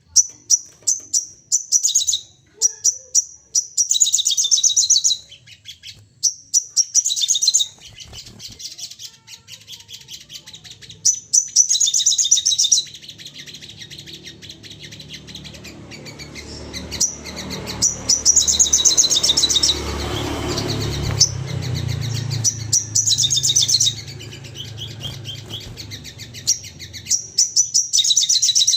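A sogon songbird singing its agitated 'nembak' song: rapid-fire, high-pitched chirps in bursts of about a second each, repeated over and over. A low rumble rises in the middle and fades out.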